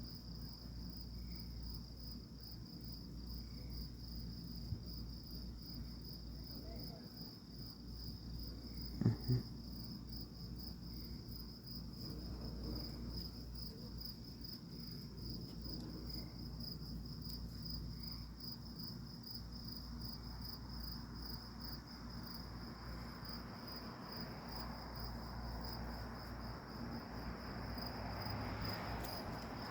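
Crickets chirping in a steady, fast high trill. A brief low knock comes about nine seconds in, and a soft rushing noise builds over the last several seconds.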